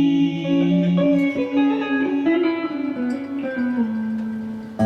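Live band music led by guitar, a closing instrumental phrase of held notes after the last sung line, dying away near the end.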